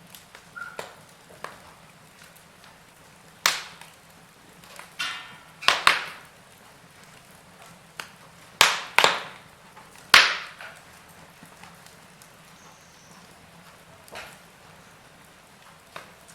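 Wood fire in a fireplace crackling: about a dozen sharp, irregularly spaced pops and snaps over a faint steady hiss.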